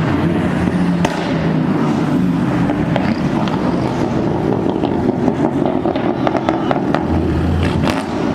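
Car engine running with a rapid string of sharp exhaust pops and crackles, coming thickest in the second half.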